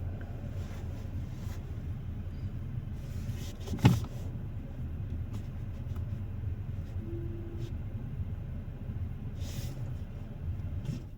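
2025 Mazda CX-5's 2.5-litre four-cylinder engine idling steadily, a low hum heard from inside the cabin, with a single sharp click about four seconds in.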